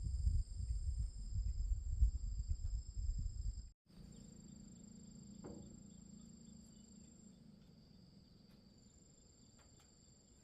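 Insects trilling steadily in two high pitches, over low rumbling noise for the first few seconds. A brief cut about four seconds in, after which a faint low hum sits under the trilling.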